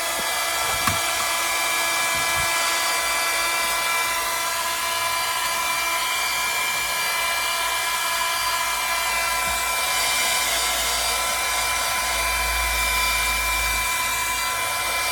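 Cordless rechargeable hair dryer running steadily: a motor's high whine over the rush of blown air, with a brief low rumble near the end.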